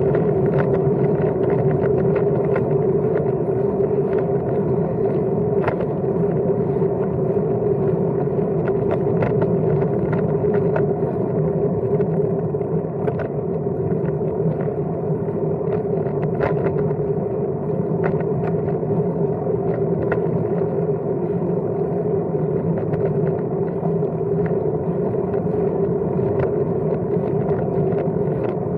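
Riding noise from a Brompton folding bicycle in motion: a steady rumble of tyres and drivetrain, with scattered small clicks and rattles.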